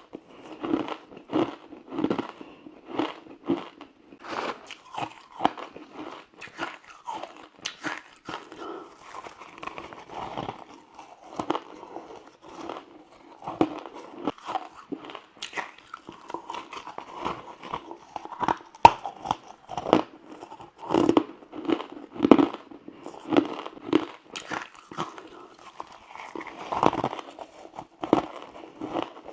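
Frozen matcha ice being bitten and crunched between the teeth, with many sharp, irregular crunches, several a second, and chewing in between.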